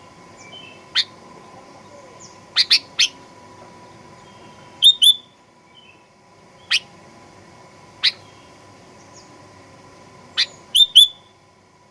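Sooty-headed bulbul (kutilang) giving short, sharp call notes, singly and in quick pairs and triples every second or two, with the loudest burst near the end. A faint steady tone sounds underneath.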